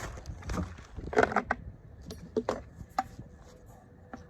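Sharp knocks and clatter of beehive equipment being handled: a quick cluster of knocks about a second in, then a few scattered clicks.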